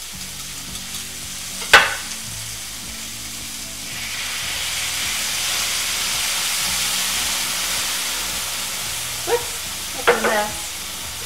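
Chicken and vegetables sizzling in a hot skillet. A sharp clink comes about two seconds in. The sizzle then swells for several seconds as orange stir-fry sauce is poured into the pan, and a few more clinks follow near the end.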